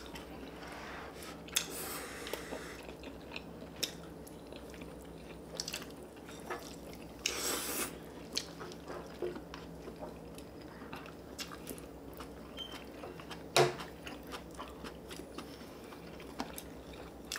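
Close-miked chewing and mouth sounds of people eating spicy stir-fried chicken (dakgalbi) and rice, with scattered small clicks of chopsticks and spoons. One sharp tap, the loudest sound, comes about thirteen and a half seconds in.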